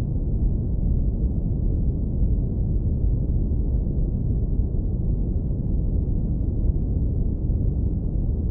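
Steady brown noise filtered down to the low end: a deep, even rumble with nothing bright on top and no change throughout.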